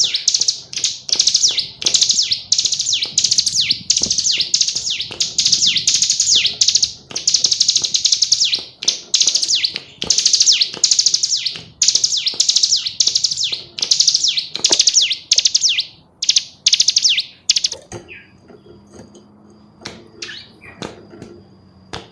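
Female ciblek gunung calling in fast, high, repeated chirp trains, each a quick run of notes, which stop about three-quarters of the way in, leaving a few faint clicks.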